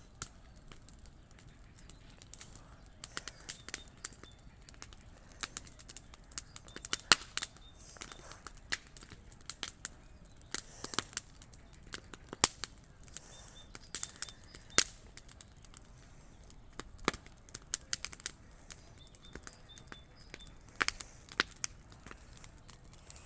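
Bonfire crackling, with irregular sharp snaps and pops of burning wood, some much louder than the rest.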